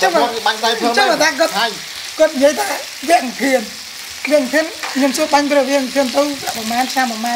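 Meat and vegetables sizzling on a hot tabletop grill pan, with voices talking over the sizzle.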